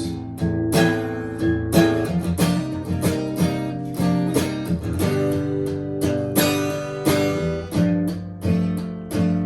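Background music: an acoustic guitar strumming chords in an instrumental stretch of a song, with no singing.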